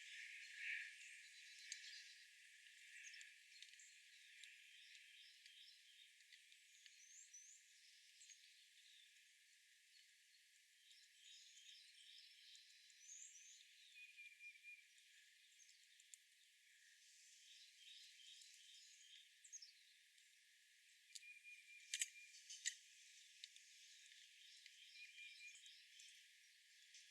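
Faint outdoor ambience of small birds chirping in short repeated series, over a thin insect hum. Two sharp clicks come close together near the end.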